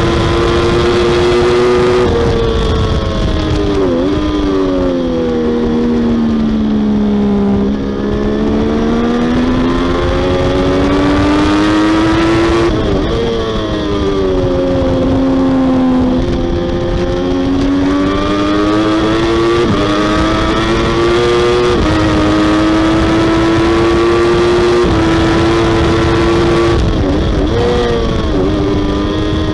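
Triumph Daytona 675R's inline three-cylinder engine revving hard near its redline, heard onboard over heavy wind rush. The pitch sinks under braking with three blipped downshifts and climbs again on the throttle, with two quick upshifts each dropping it a step past the middle.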